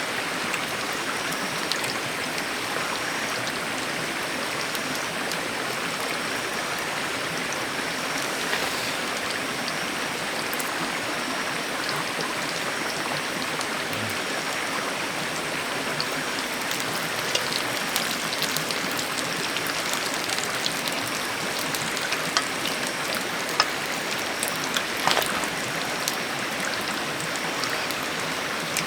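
Steady rushing of a mountain stream, with scattered light ticks and taps in the second half.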